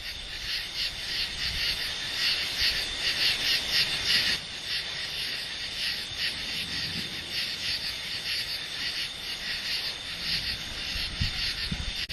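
Chorus of insects chirping in rapid, even pulses, high-pitched and unbroken, with a soft low rumble underneath.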